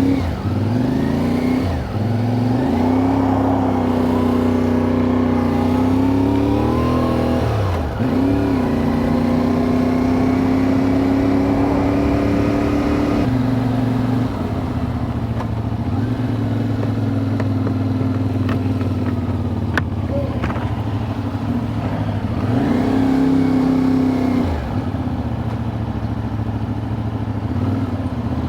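Motorcycle engine running while riding, its pitch rising and falling several times with throttle and gear changes.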